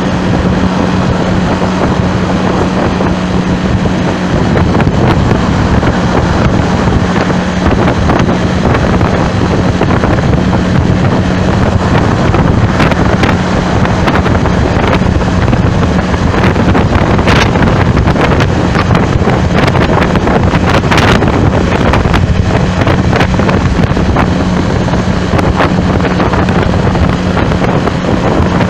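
Loud, steady wind noise buffeting the microphone over a steady low engine drone from a moving vehicle.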